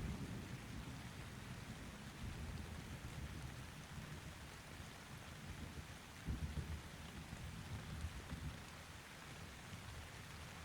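Steady rain hissing under distant thunder rumbling low. The rumble eases off, then swells again about six seconds in.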